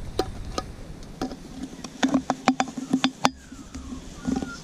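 Irregular light clicks and knocks, a dozen or so, from small metal cook-kit parts being handled and set down; some taps give a short low ring.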